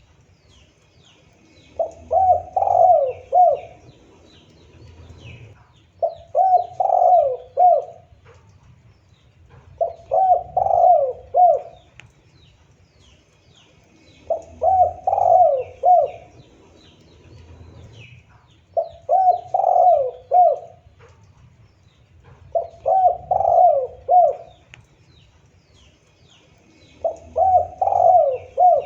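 Spotted dove (tekukur) cooing: seven phrases of several quick coos each, repeating about every four seconds, with faint chirps of small birds in the background.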